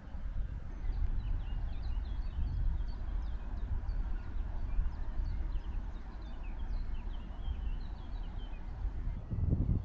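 Small birds chirping, many quick high chirps one after another, over a steady low rumble; a dull bump near the end.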